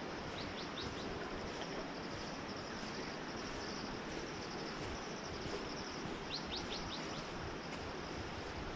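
Tropical forest ambience: a steady rushing hiss with an insect's pulsing high trill over it, and a bird giving two quick runs of four rising chirps, about half a second in and again near the end.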